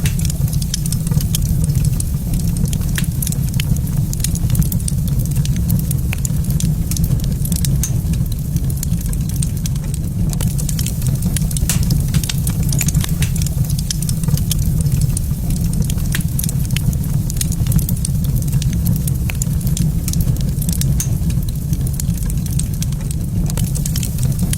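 Wood fire crackling in a fireplace, with frequent small sharp pops, over a steady low rumble that is the loudest part of the sound.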